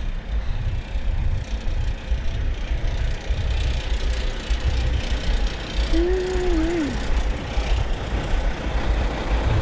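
Kenworth semi truck's diesel engine idling, a steady low rumble. About six seconds in, a brief pitched note rises and falls over the rumble.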